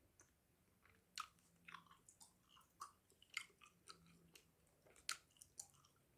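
Close-miked chewing of a fresh cube of Hubba Bubba Max bubble gum: irregular wet clicks and smacks of the mouth and gum, about two a second.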